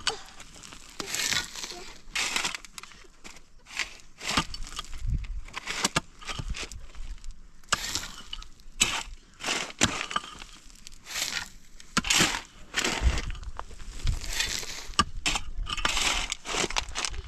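A series of irregular crunching and cracking noises, roughly one every second, as if something brittle is being broken or crushed.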